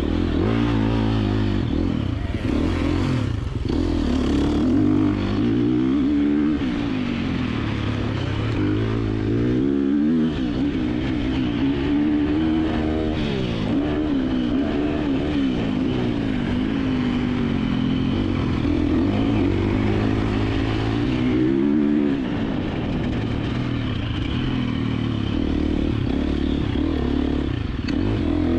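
2024 KTM 350XC-F single-cylinder four-stroke dirt bike engine being ridden hard off-road. Its pitch climbs and drops again and again as the throttle opens and closes and the gears change.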